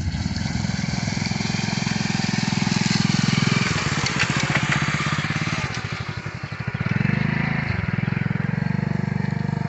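An engine running close by with an even pulsing beat. Its note changes around four seconds in and again near eight seconds.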